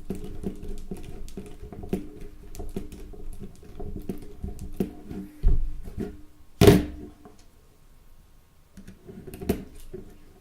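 Small clicks and taps of Nokia 3310 plastic parts being handled and fitted together during reassembly, with a low knock about five seconds in and one louder sharp click about six and a half seconds in.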